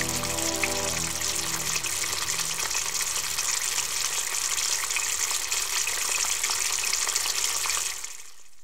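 Shredded cabbage and vegetables sizzling in a frying pan, a steady crackly hiss, with soft background music. It fades out near the end.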